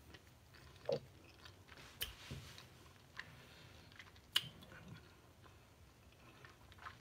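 A person chewing a mouthful of cheesy broccoli and rice, faint, with a few short mouth clicks and smacks, the strongest about a second in and about four and a half seconds in.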